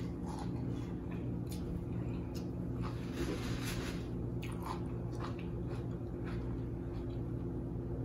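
Close-up chewing and biting: a person eating sauce-dipped seafood boil, with short mouth clicks and smacks and a noisier slurping stretch about three seconds in, over a steady low hum.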